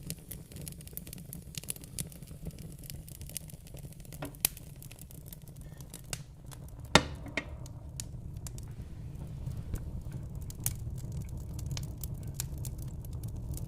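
Wood fire in a fireplace crackling with scattered small snaps over a steady low rumble. Two louder pops come about four and a half and seven seconds in.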